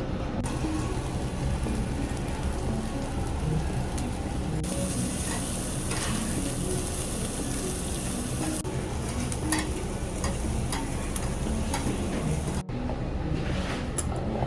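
Meat roasting over an oak-wood fire: a steady sizzle with scattered sharp crackles. The sound changes abruptly several times as different shots are cut together.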